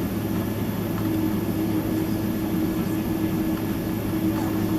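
Steady cabin hum inside a Boeing 767-300ER after landing: an even rumble with a low drone and a tone that fades in and out.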